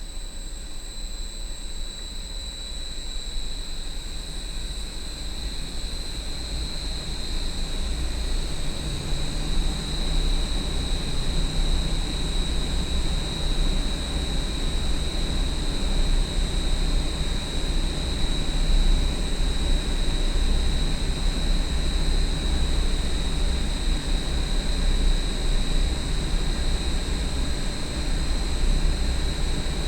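Large industrial parking-garage exhaust fan running: a loud, deep rumble with a steady high-pitched whine on top, growing louder over roughly the first ten seconds and then holding steady.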